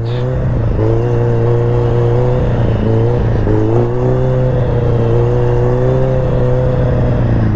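Sport motorcycle engine running at steady, moderate revs while riding, with brief dips in revs about a second in and around three seconds in, over wind and road noise on the helmet mic.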